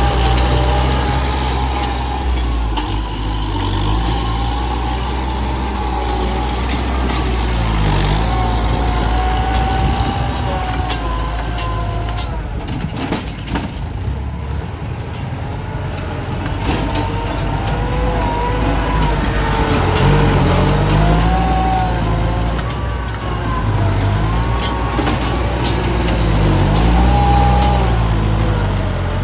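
Heavy truck engine running under load, its pitch wavering up and down.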